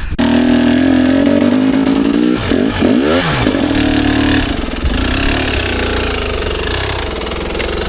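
Dirt bike engine running close by at a steady note, revving up and back down briefly about three seconds in, then settling into steady running.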